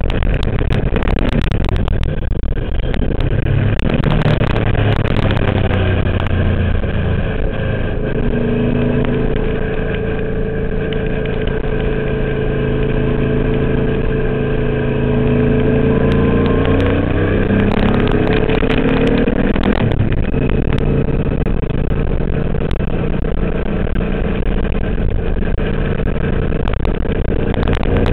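A twin-turbo Subaru engine in a VW race car running hard on track, its note climbing and dropping as the driver works the throttle and gears.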